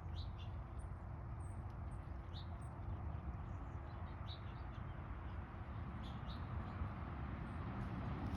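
A few short, high bird chirps scattered over a steady low rumble of background noise.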